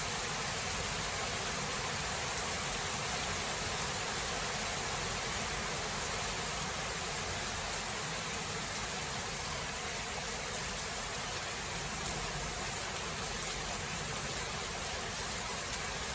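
Steady rain of a thunderstorm recording, an even hiss with no thunder rumble, and one brief louder tick about twelve seconds in.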